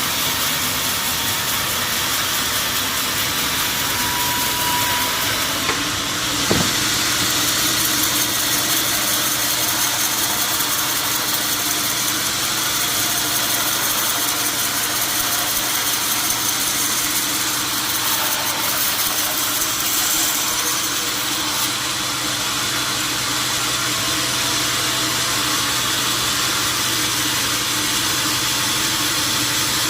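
A steady running motor hum under an even hiss, with one short click about six and a half seconds in.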